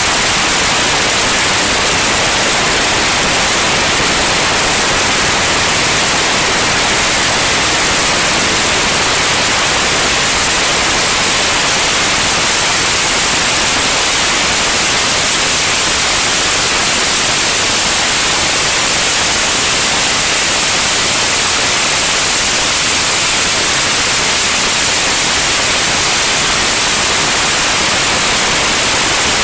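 Steady, loud static-like hiss, even throughout with no tones or breaks.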